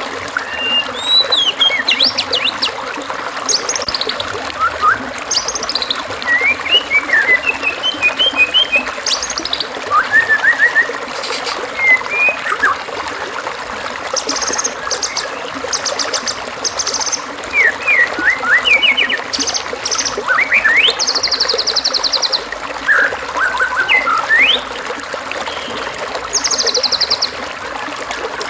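A masteran recording of varied songbird calls: quick rising and falling whistles, chirps, and several short high buzzing trills. Under them runs a steady trickle of flowing water.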